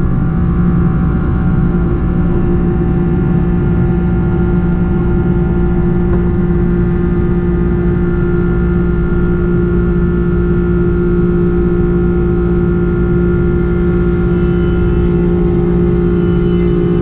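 Boeing 767-300's Rolls-Royce RB211 jet engines running steadily, a loud even drone with a strong low hum and a few fainter whining tones above it.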